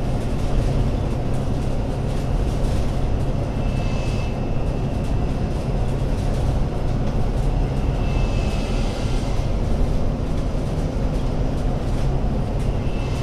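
Alexander Dennis Enviro500 MMC Euro 6 double-decker bus engine running, a steady low drone. A faint high whine comes and goes about every four seconds.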